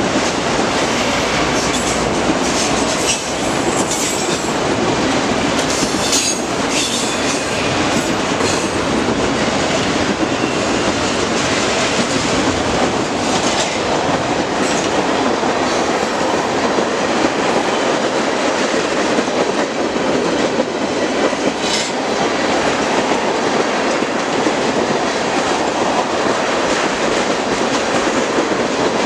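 Freight train cars rolling past close by: a steady, loud noise of steel wheels on the rails, with brief high-pitched wheel squeals several times in the first eight seconds and once more about 22 seconds in.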